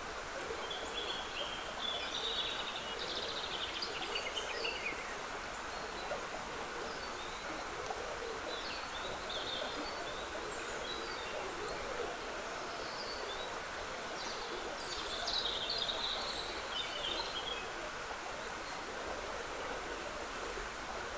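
Trickling stream water running steadily, with songbirds singing short phrases now and then over it, most strongly a few seconds in and again about three-quarters of the way through.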